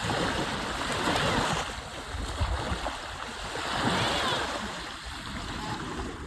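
Water lapping and splashing around a kayak, in two gentle swells.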